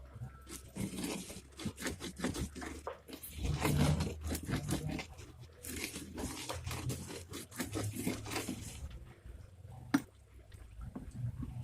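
Sweet corn being worked by hand: irregular crunching and tearing strokes in two dense runs, with lighter strokes between them and a single sharp knock about ten seconds in.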